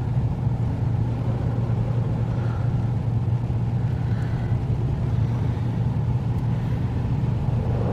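Steady low hum and rumble of automatic tunnel car wash machinery, heard from inside the car's closed cabin, with no distinct events standing out.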